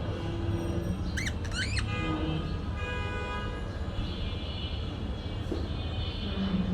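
Parakeet giving two short chirps in quick succession, about a second in, over background music and a steady low rumble.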